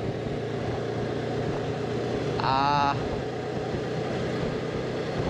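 Honda CB500X's parallel-twin engine running steadily on the road, with wind and road noise. A brief wavering tone cuts through about two and a half seconds in.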